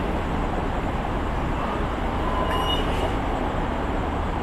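Steady running noise of an MTR East Rail line R-train electric multiple unit standing at the platform, with a brief high tone about two and a half seconds in.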